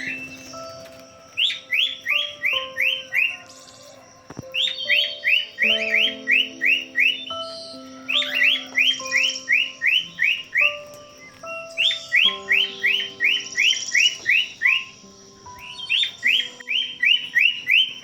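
A bird in an aviary calling in five repeated bursts, each a rapid run of short falling chirps lasting about two seconds, with quieter steady held tones underneath.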